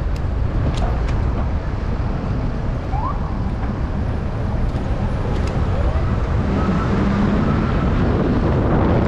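City street traffic noise, a steady rumble of passing cars, with wind buffeting the microphone. A short rising squeak comes about three seconds in, and a few faint clicks sound over the rumble.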